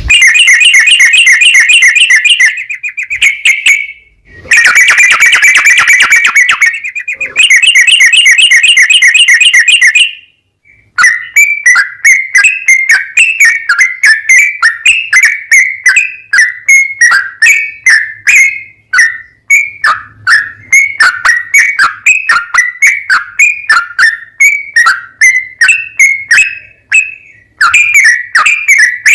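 Yellow-vented bulbul singing a long, loud, rapid trill of repeated notes, broken twice by short pauses; after a brief silence about ten seconds in, it goes on as a long string of separate falling notes, about three or four a second.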